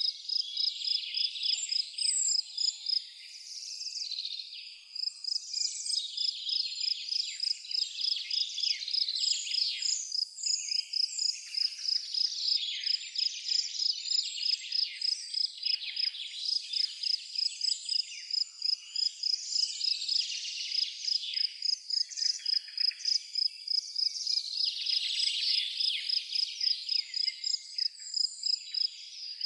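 A cricket chirping in a steady, even rhythm of a few high-pitched pulses a second, over a chorus of birds singing with short varied chirps and whistles.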